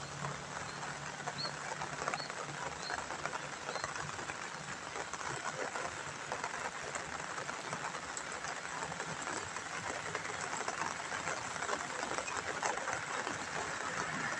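Steady gentle rain pattering on a wet asphalt road, with a few short bird chirps in the first few seconds. Near the end the hiss of an approaching car's tyres on the wet road starts to rise.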